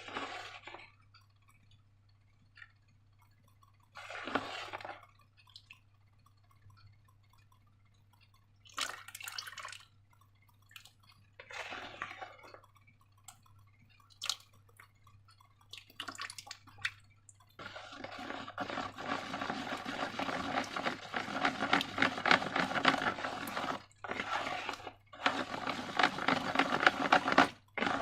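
Wet slime being squished and worked by hand: a few short squelches several seconds apart, then about ten seconds of dense, rapid crackling squelches near the end.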